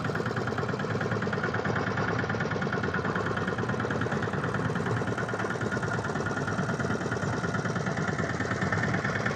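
Fishing boat's engine running steadily with a rapid, even pulse.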